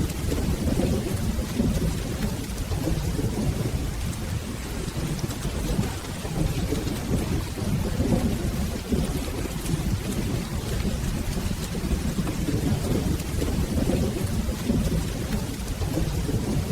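Steady rain with low, rolling thunder rumbling and swelling in slow waves.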